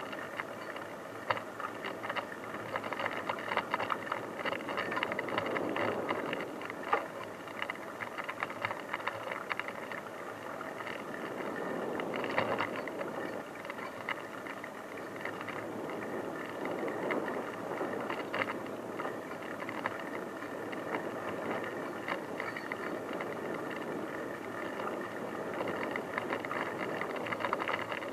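Bicycle being ridden over a rough unpaved track: a steady noise from the tyres with continual rattling and clicking from the bike.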